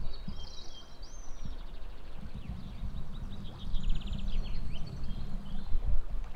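A songbird singing high chirps and quick trills, over a low rumble of wind on the microphone.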